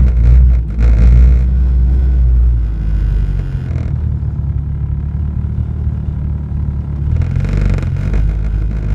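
Ford Escort RS Turbo's 1.6 CVH turbocharged four-cylinder engine running as the car drives, newly fitted and being run in. It is a steady low drone, with louder stretches near the start and again about seven seconds in.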